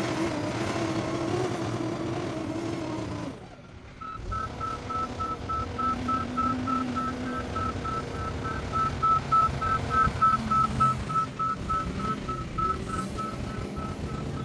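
Heavy machine's engine running, then after a brief drop about three seconds in, a reversing alarm beeps repeatedly at one high pitch over the engine.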